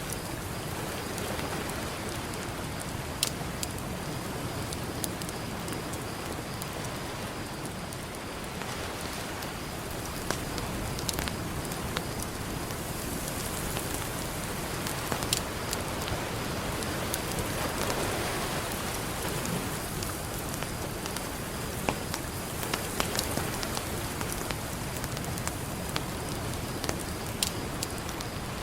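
Campfire crackling, with sharp pops scattered through it, over a steady wash of ocean surf that swells now and then.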